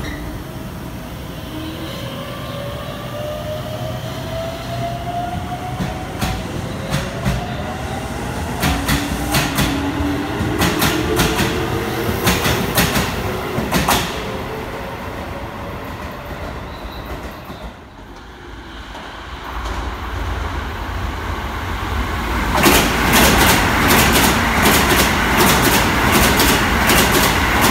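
A Keisei electric commuter train pulls out with its traction motors whining steadily higher in pitch, its wheels clicking over rail joints as it gathers speed. After a brief lull, a second train runs past at speed, louder, with a dense rumble and rapid clicks of wheels over the joints.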